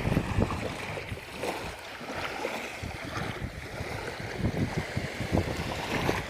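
Sea waves washing, with wind buffeting the microphone in irregular gusts.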